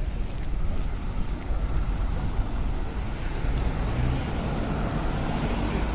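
Steady low rumble of city street noise, with no distinct events standing out.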